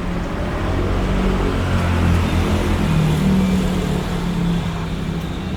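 Road traffic: a motor vehicle's engine running close by over the hum of passing traffic, swelling a little in the middle and then easing.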